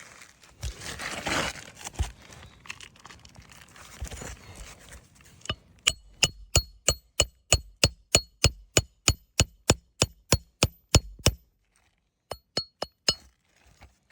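Hammer striking a Roof Snake, the steel nail-setting tool slid under the shingles, to drive roofing nails back in: a scraping rustle at first, then a long run of ringing metallic strikes about three a second, a short pause, and a few more strikes near the end.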